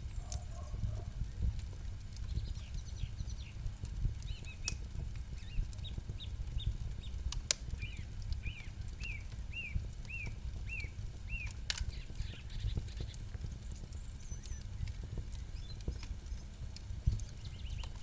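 Campfire crackling, with occasional sharp pops over a steady low rumble. A bird calls in a run of about seven short down-slurred notes, roughly two a second, from about 8 to 11.5 seconds in, with fainter chirps before it.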